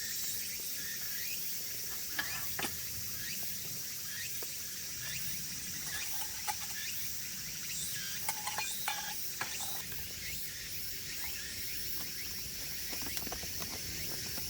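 Camp cooking sounds: light clicks and a few short metallic clinks of cookware handled over a steady hiss, with a cluster of clinks about eight to nine seconds in.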